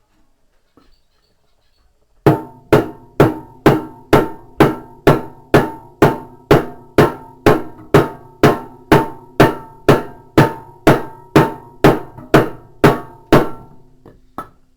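Steady hammer blows, about two a second, each with a metallic ring, driving a part into a washing machine tub. After a short pause, one last single blow comes near the end.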